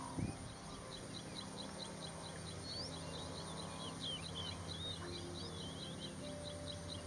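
Small birds chirping: a run of short, high chirps repeats evenly at about five a second, with other high bird notes over it in the middle. A brief low thump comes just after the start, over a steady low hum.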